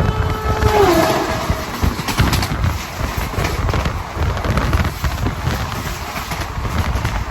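Passenger train running at speed, heard from on board: a steady rumble with an uneven clatter of wheels over the track. Near the start, a held tone slides down in pitch and fades.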